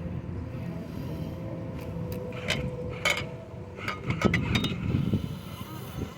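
Radio-controlled model truck running, with a steady low rumble and a faint whine. A string of sharp clicks and knocks comes from about two and a half seconds in.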